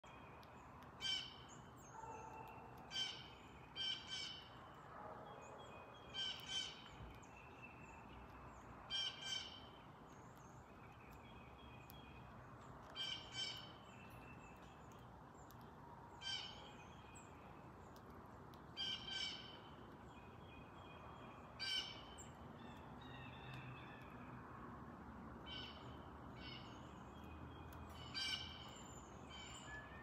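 Wild birds calling: a bird gives short calls about a dozen times, often in quick pairs, over faint birdsong from others.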